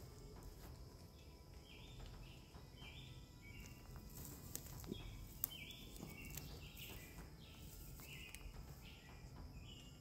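Faint woodland sound: a bird gives short, raspy calls over and over, about two a second, above a low rumble.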